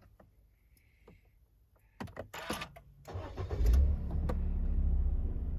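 A few light clicks, then about two seconds in the starter cranks briefly and the Suzuki Spacia Custom MK32S's 660 cc turbocharged three-cylinder engine catches, revs up for a moment and settles into a steady idle: a cold start.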